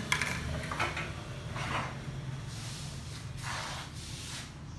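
A few short scraping and knocking handling sounds, spread over several seconds, with a faint low hum that dies away about a second in. This is not the sound of the magnetic drill cutting.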